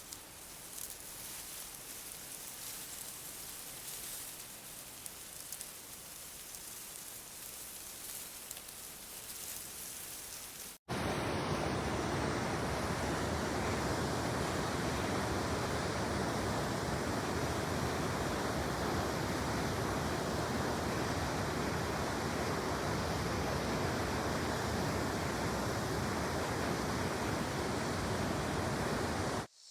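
Steady rushing water. A softer, hissier stretch cuts abruptly about eleven seconds in to a louder, fuller rush that runs on evenly, like a stream or waterfall, and ends with another sudden cut near the end.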